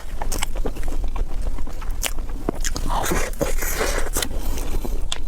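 Close-miked eating: biting and chewing with many short crisp clicks and crackles, busiest about three to four seconds in, over a steady low hum.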